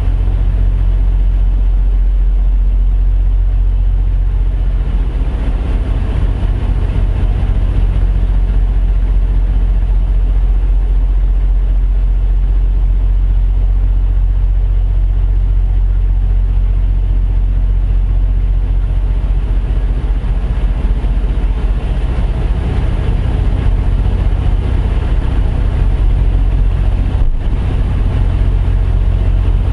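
Semi truck's diesel engine idling, a steady low drone with no change in speed.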